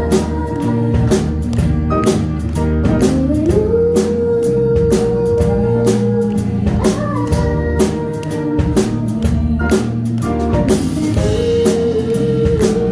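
Live band music with a steady drum beat and guitar; a long held melody note slides up about three seconds in and holds for several seconds.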